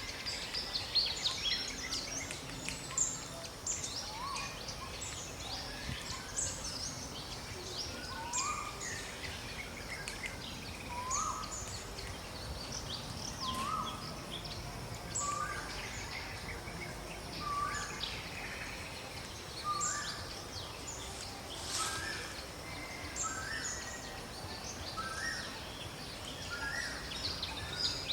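Outdoor ambience full of birdsong: many short, high chirps and calls from several birds over a steady background hiss. From about a third of the way in, one short rising note repeats about every second and a half.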